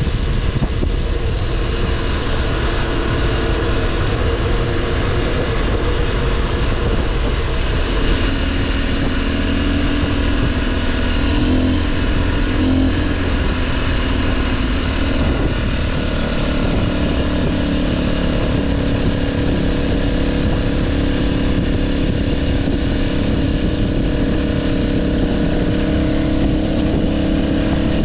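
Motorcycle engine running under way, its pitch shifting with the throttle, over steady low wind rumble on the microphone.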